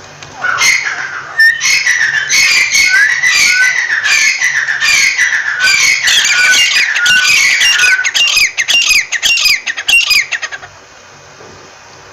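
Francolin (teetar) calling: a loud, rapid run of harsh, squawking notes, many sliding down in pitch, kept up for about ten seconds before stopping suddenly.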